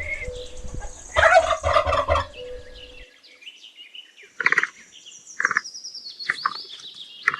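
Domestic turkey gobbling in a quick rattling burst about a second in, then short separate calls once the background noise cuts out about halfway through, with a thin high whistle falling slowly in pitch.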